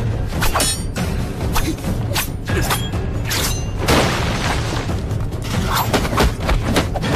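Action-film soundtrack: a driving score with a heavy low bed, cut through by many sharp impacts, booms and crashes in quick succession.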